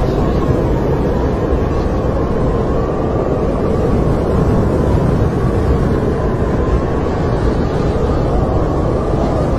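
Steady snowstorm wind with a deep rumble and a thin howling whistle that slowly wavers in pitch.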